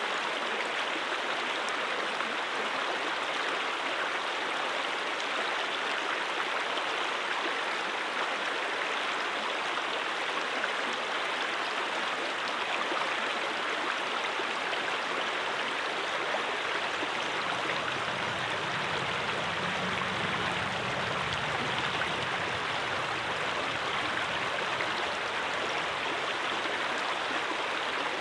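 A brook flowing in a steady, even rush of running water, with a faint low rumble joining for a few seconds past the middle.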